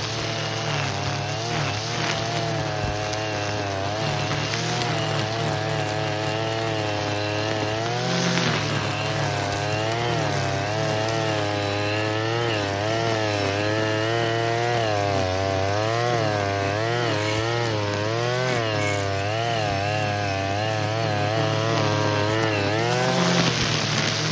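Engine-powered brush cutter with a nylon-cord trimmer head running while cutting weeds, its engine pitch rising and falling continually as the spinning cord meets the grass.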